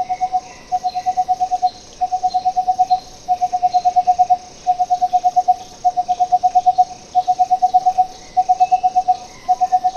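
Crimson-fronted barbet (Sri Lanka barbet) calling: a low note repeated quickly, about nine times a second, in runs of about a second separated by short pauses.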